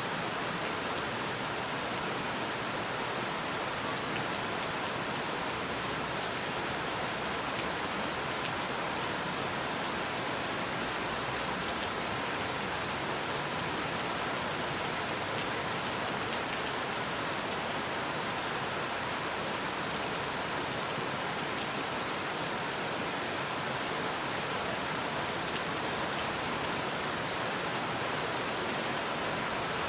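Steady rain falling: an even hiss with many fine drop ticks, holding the same level throughout.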